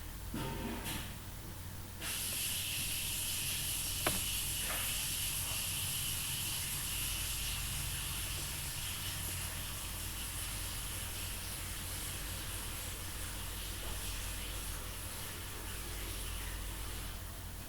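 A steady hiss that starts abruptly about two seconds in, with a single sharp click about four seconds in.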